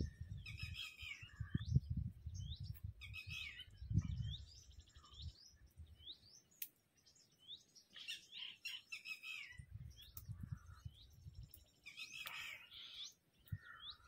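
Wild birds calling: short rising chirps about once a second, with busier bursts of chatter every few seconds. A low rumble comes and goes underneath.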